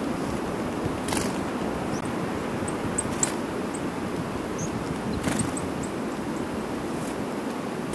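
Snowstorm wind blowing steadily over the microphone, with a scattering of very short, high, thin calls from small songbirds and a few brief rustles.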